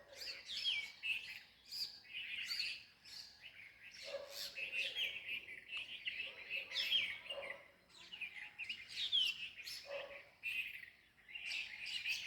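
A flock of many small birds chirping and calling over one another, short high notes and quick falling calls overlapping without a break.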